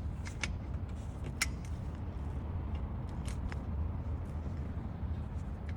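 Hand tools clinking against metal brake parts: a few sharp clicks, the loudest about a second and a half in, over a steady low hum.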